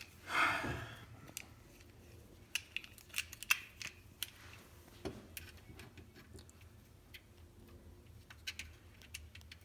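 Small metal hand-tool clicks and taps, an Allen wrench working a small screw on the engine's cable fittings, coming irregularly and most often a few seconds in. A short rush of noise near the start.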